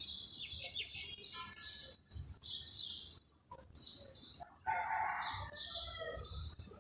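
Small birds chirping rapidly and continuously in high, quick notes, with a chicken's call lasting about a second, starting just under five seconds in.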